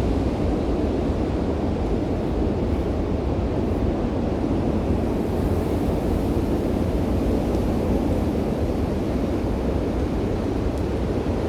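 Strong, steady wind during a mountain winter storm: a constant rushing with low rumbling buffeting on the microphone.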